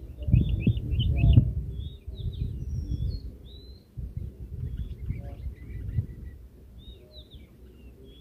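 Short, high bird chirps scattered throughout, over a low rumble that is heaviest in the first two seconds.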